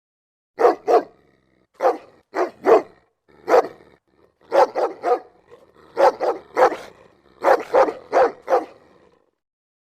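A dog barking repeatedly, about fifteen sharp barks in quick runs of two to four with short pauses between.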